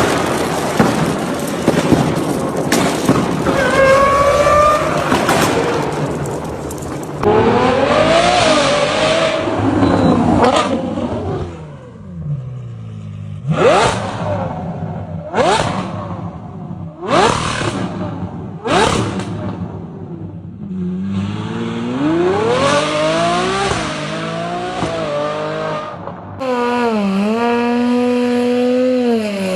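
A run of V12 supercar engine clips: high-revving engines accelerating, then four quick revs in a row, each climbing fast and dropping off, then a steady engine note that dips and rises again near the end.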